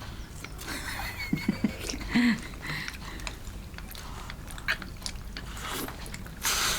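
Someone chewing and biting food, with scattered small clicks and brief bursts of noise.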